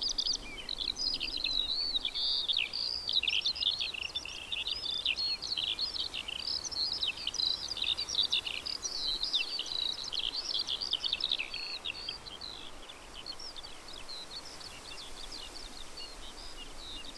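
Small songbirds chirping and twittering in a busy, overlapping chorus of quick, high notes, thinning out over the last few seconds.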